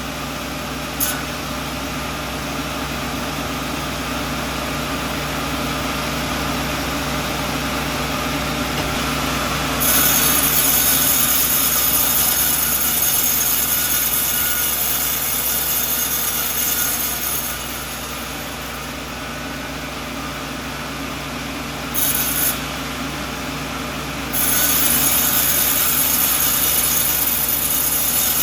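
Sawmill running with a steady machine hum while its blade saws a coconut log. The loud, high rasp of the cut comes in about ten seconds in, drops away after about seven seconds, returns briefly, then starts again near the end.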